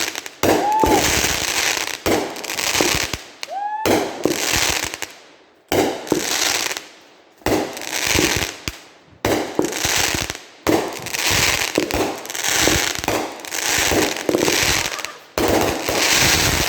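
Multi-shot firework cake firing: a string of loud crackling bursts about every one to two seconds, with two short rising whistles in the first few seconds.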